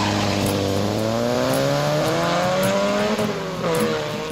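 Car engine revving up, its pitch climbing slowly for about three seconds, then dropping and rising once more before it cuts off suddenly.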